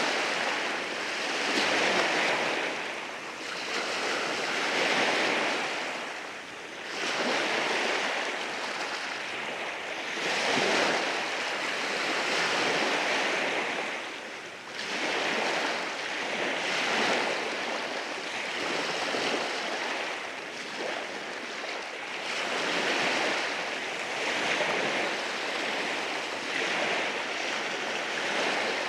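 Ocean waves washing in over rocks on a shore, a continuous surf wash that swells and ebbs every few seconds.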